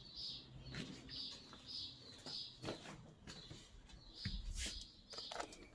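Faint high chirping of a small bird, about two chirps a second, with a few footstep thuds and clicks on a parquet floor, one heavier thud about four seconds in.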